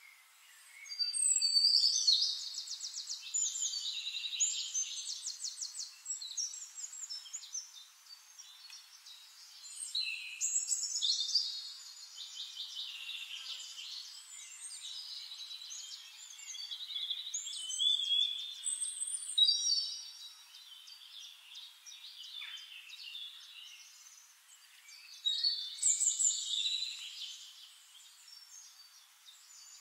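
Songbird singing: four long phrases of rapid trills and chirps, a few seconds apart, with softer twittering between them.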